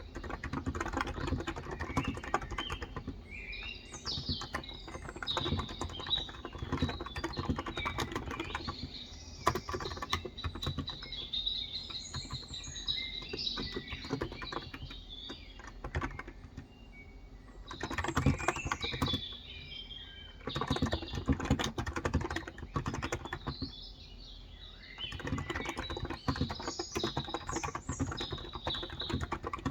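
Typing on a COX Endeavor electro-capacitive (contactless) 35 g tenkeyless keyboard, rapid keystrokes in runs with short pauses. Small birds chirp over the typing for much of the time.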